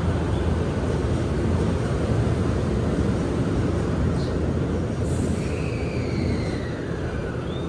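Keio Line commuter train standing at a station platform with its doors closed, making a steady low rumble. In the second half a whine slowly falls in pitch.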